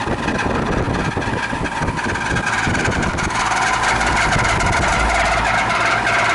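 Outdoor air-conditioner condenser fan motor on a 20-year-old unit running noisily, a rough rattling with a steady whine that climbs a little in pitch about two seconds in. The technician takes the noise for a failing condensing motor that needs replacing.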